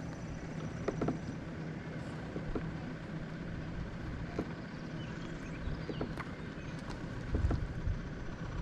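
A steady engine hum running throughout, with scattered light clicks and knocks over it.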